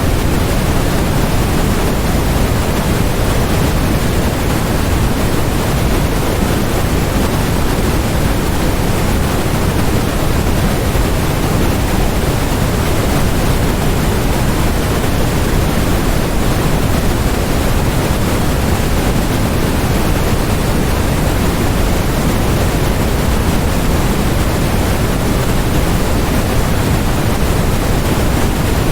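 Continuous, unchanging generated noise of the kind sold as white noise for focus: an even hiss, fuller in the low end than in the treble, with no events or changes.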